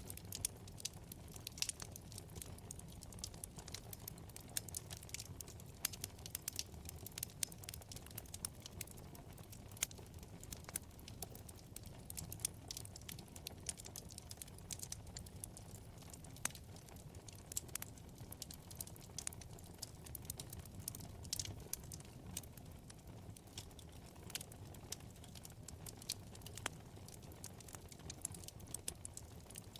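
Wood fire burning in a fireplace, crackling with frequent irregular sharp pops over a low, steady rumble of flame.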